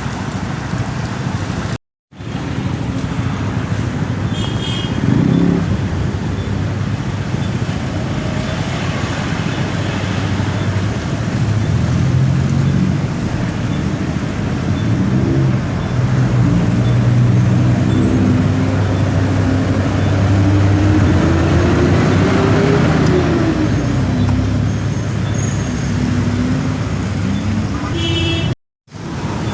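Motorcycle engine running while riding in traffic, its revs rising and falling with the throttle and one long climb and drop about two-thirds of the way in, over steady road and traffic noise. The sound cuts out briefly twice.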